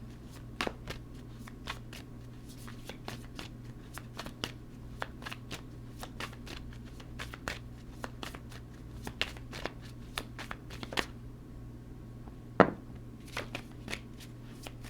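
Tarot cards being shuffled and handled: a string of quick, light card clicks and flicks, with one sharper snap near the end, over a faint steady low hum.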